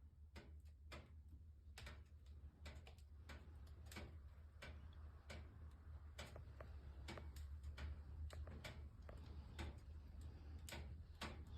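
Wood fire crackling in a fireplace: faint, irregular pops and snaps over a steady low hum.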